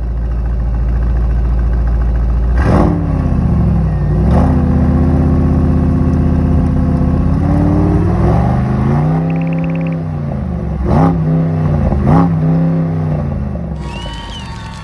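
Mercedes-AMG S63 E Performance's twin-turbo V8 idling, then revved: a sharp blip about two and a half seconds in, a rev held steady for a few seconds, several more quick blips, then the revs dropping away near the end.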